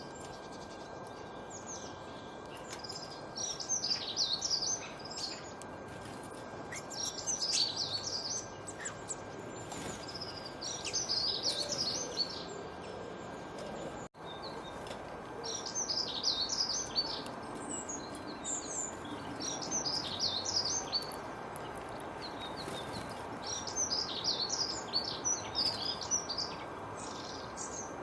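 Songbirds singing short, high, twittering phrases that recur every few seconds over a steady background hiss, with a faint steady high tone underneath. The sound drops out for a split second about halfway through.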